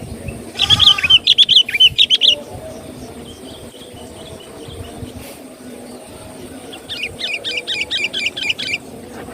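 Sooty-headed bulbul (kutilang) song: a quick bubbling phrase of chirped notes just after the start, then after a pause a rapid run of short repeated notes near the end.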